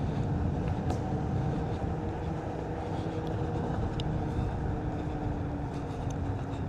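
Onewheel electric board rolling along a dirt trail: a steady low rumble of tyre and wind on the microphone, a faint hum from the hub motor, and a few light clicks.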